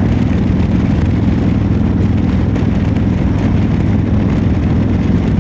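Harley-Davidson motorcycle cruising at a steady speed: a constant low engine drone mixed with wind and road noise.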